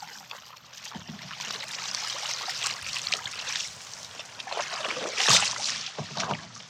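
Water splashing and sloshing around a canoe, in irregular bursts, with the loudest splash about five seconds in.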